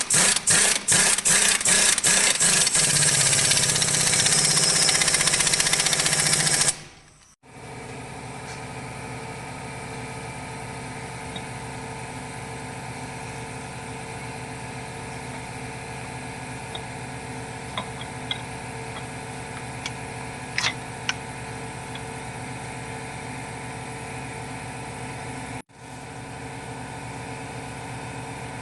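Loud, hissing machine noise with a quick stuttering run of strokes at first, lasting about seven seconds and stopping abruptly. It is followed by a steadier, quieter mechanical hum with a few faint clicks.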